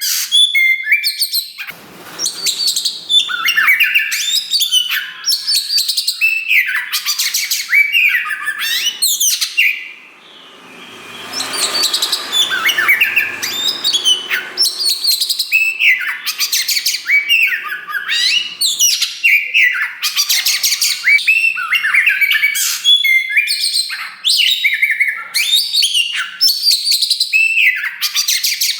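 A black kacer wulung form of the Oriental magpie-robin sings loudly and without let-up: rapid, varied phrases of sweeping whistles and sharp chirps, with a brief pause about ten seconds in.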